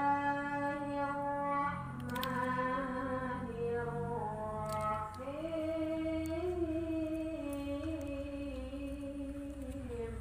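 A voice singing or humming a slow tune in long held notes that step to a new pitch every second or two, with a slight waver on the longest note.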